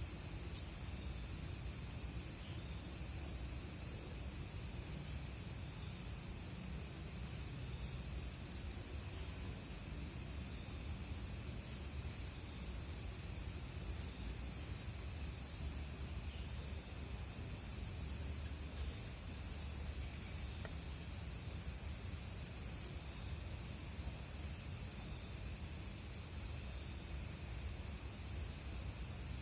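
Night-time crickets chirping: one steady high-pitched trill, with a second insect chirping in short runs of rapid pulses every few seconds.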